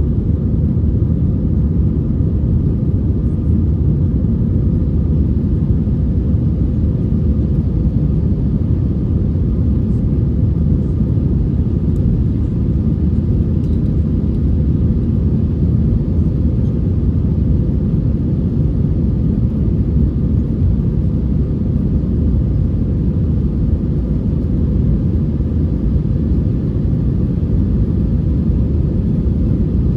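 Airbus A321 jet engines running, a steady low rumble that holds at one level throughout.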